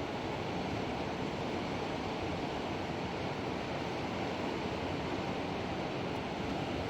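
Steady rushing of a river's flowing water, an even wash of noise with no breaks.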